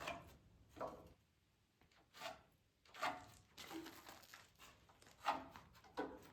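Hammer knocking on wooden board-and-batten siding: about seven faint, irregularly spaced blows, each ringing briefly.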